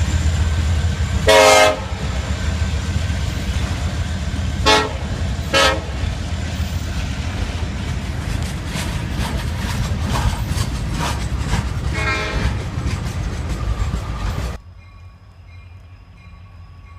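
Freight train rumbling past with its diesel locomotive horn sounding short blasts: one a little over a second in, two quick ones around five seconds, and another about twelve seconds in. The train sound cuts off suddenly near the end.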